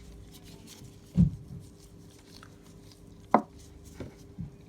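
A few short knocks and clicks from a screwdriver and a plastic plug being handled during wiring, the two sharpest about a second in and near three and a half seconds, with lighter taps just after.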